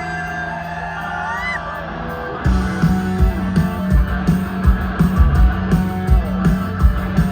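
Rock band music with guitar: held guitar notes at first, then drums and bass come in about two and a half seconds in with a steady beat.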